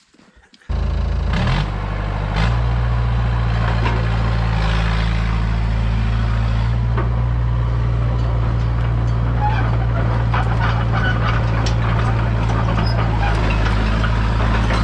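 Hitachi EX100 excavator's diesel engine running steadily, coming in abruptly about a second in, with scattered clicks and creaks over it.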